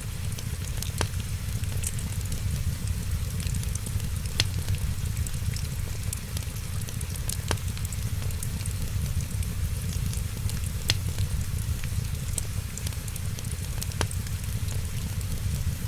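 Wood fire crackling, a dense patter of small crackles with a louder sharp pop every few seconds, over a steady low rumble.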